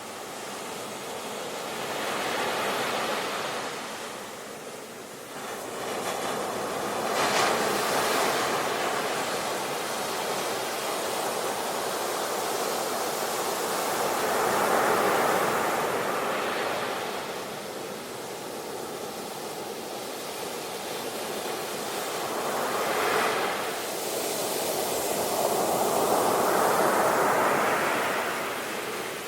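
Ocean waves washing onto a shore, a steady rush of surf that swells and falls back as each wave breaks, about five times.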